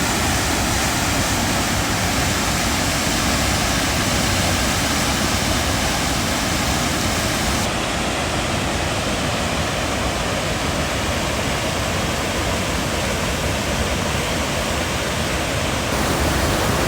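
Steady rush of a waterfall's falling water. The hiss thins out in the top end about halfway through and comes back near the end.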